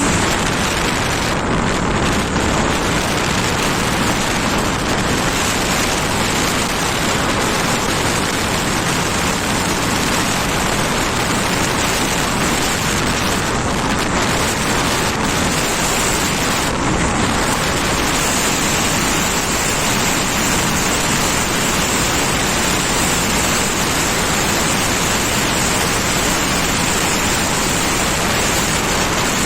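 Steady wind roar buffeting the microphone of a moving scooter, masking the engine and road noise beneath it.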